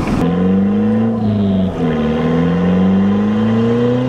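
1993 Honda Civic EG hatchback's engine accelerating hard through the gears, heard from inside the cabin. The engine note climbs, drops at a gear change about two seconds in, then climbs again.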